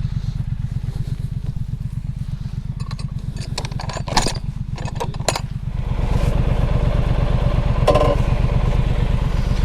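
Triumph Street Scrambler's 900 cc parallel-twin engine running while riding, a steady low pulse that gets louder about six seconds in. A few sharp clicks near the middle.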